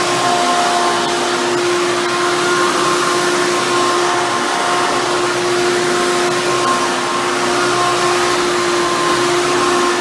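Hoover Bagless Twin Chamber upright vacuum cleaner running steadily: a constant motor tone under the rush of air.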